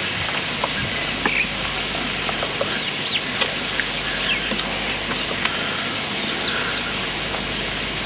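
Scattered short bird chirps, several close together a few seconds in, over a steady background hiss.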